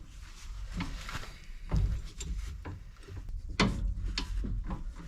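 Metal clunks and scraping from a pry bar levering the car's front stabilizer bar while a new stabilizer link's lower end is worked into place, with a few sharp knocks, the loudest about two seconds in and again near four seconds.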